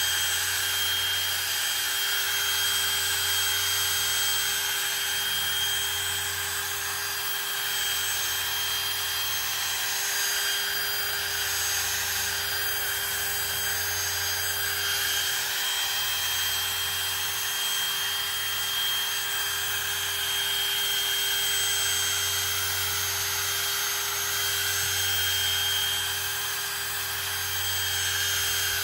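Ryobi brushless hammer drill running steadily on its lowest speed setting, spinning a polishing pad to work polish into a plastic headlight lens: an even motor whine that holds one pitch throughout.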